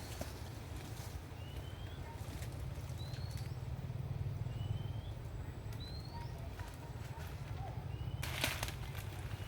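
A bird calling with short, rising chirps every second or so, over a steady low rumble. A brief rustling, crackling burst comes about eight seconds in.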